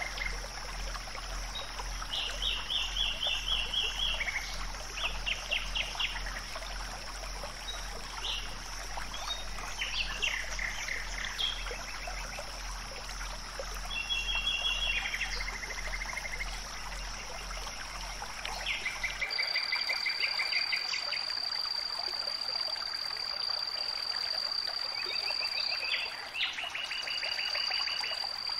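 Birds singing short, rapid trills over a steady, high insect drone. About two-thirds of the way through, a low hum drops out and the drone changes to a single thin, steady whine.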